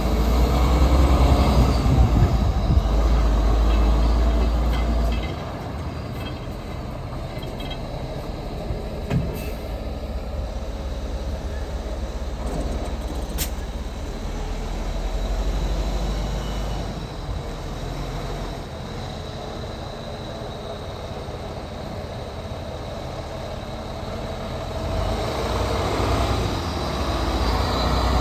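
Heavy diesel truck engine running steadily, louder for the first five seconds or so and again near the end.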